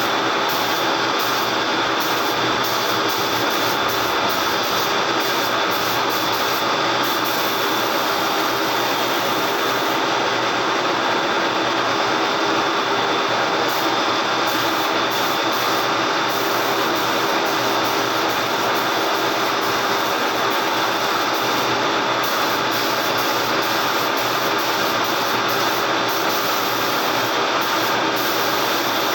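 Steady, unbroken machine noise with a hiss over a low hum, holding one level throughout, typical of a body-shop tool or compressor running.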